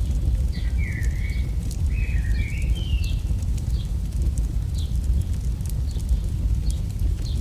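AI-generated campfire sound: a steady low rumble of flames with frequent sharp crackles and pops. A bird chirps a few times in the first half.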